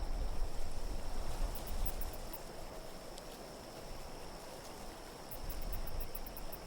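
Wind gusting in a low rumble that swells and eases, over a faint steady high hiss, with two brief clusters of tiny high tinkling ticks.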